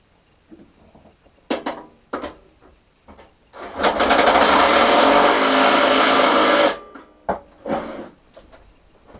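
A few sharp knocks, then a small motorised tool running hard for about three seconds with a fast rattle, cutting off suddenly, followed by more knocks.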